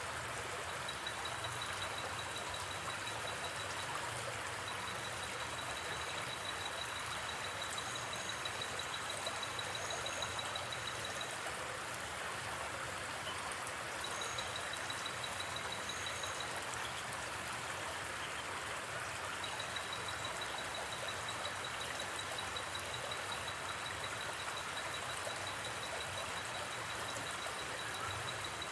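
River water flowing steadily, a constant even rush. Over it an insect chirps in a rapid, high-pitched trill that runs in long stretches, breaking off twice and starting again.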